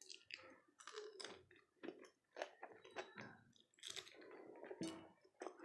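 Close-miked chewing of dahi golgappe, crisp hollow puri shells filled with yogurt: irregular crunches and mouth sounds.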